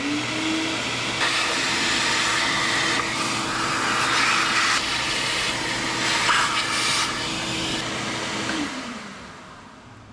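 A high-speed motor spins up, runs steadily for about eight seconds with a loud rushing hiss that swells and eases, then winds down near the end.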